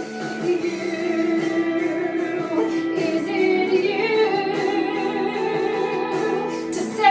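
A woman singing a musical-theatre song over instrumental accompaniment, holding long notes with vibrato that move higher about halfway through.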